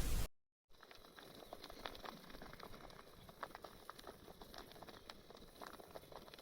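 Wood campfire crackling: a faint, irregular run of small pops and snaps over a low hiss.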